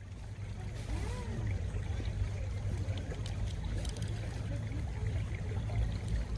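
Stream water running and gurgling, with many small bubbling sounds over a steady low rumble.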